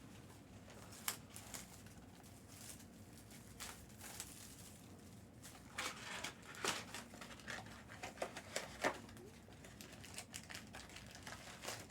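Faint handling noises: scattered light clicks and brief crinkling rustles, a little busier about halfway through.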